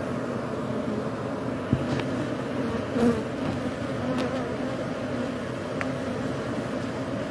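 Many honey bees buzzing together in a steady hum from an exposed colony, with a few light clicks or knocks about two and three seconds in.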